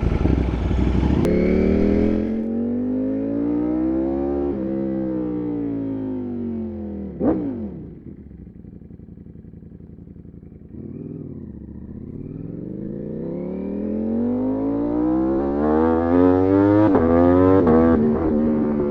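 V4 motorcycle engine heard from on board, its revs sinking slowly over several seconds. About seven seconds in a vehicle flashes past, then the engine is quieter for a few seconds before its revs climb steadily again as it accelerates toward the end.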